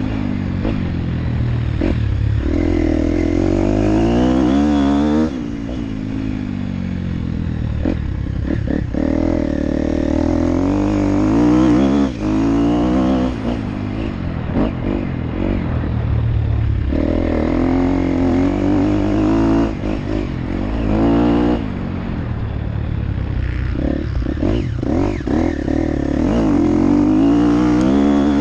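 Motocross dirt bike engine revving and easing off again and again as it is ridden, its pitch climbing and then dropping several times, with knocks and rattles from the bike over the ground.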